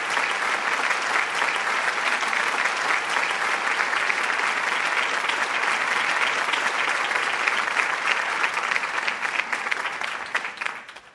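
Audience applauding: a dense, steady clapping that fades away near the end.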